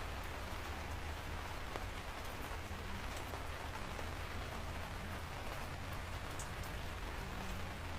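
Steady rain falling on a surface, an even hiss with single drops ticking here and there, over a steady low rumble.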